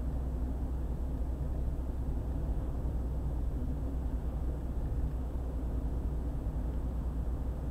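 Steady low rumble of road and engine noise from a car driving on a highway, with a faint steady hum.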